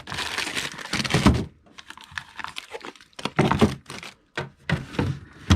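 Plastic-wrapped frozen food packages rustling and crinkling as they are handled, followed by several knocks and thunks as they are set down in the freezer.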